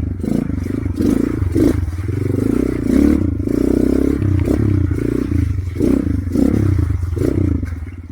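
Motorcycle engine revving up and down over and over as it labours along a muddy, rocky trail, with clattering knocks from the bike over the rough ground.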